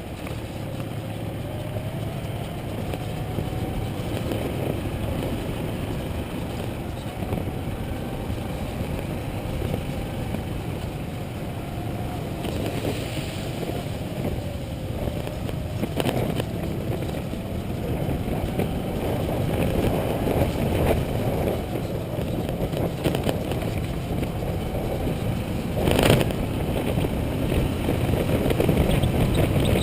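Motorcycle being ridden, its engine tone drifting up and down under a steady rush of noise, with a couple of sharp knocks, the louder one near the end.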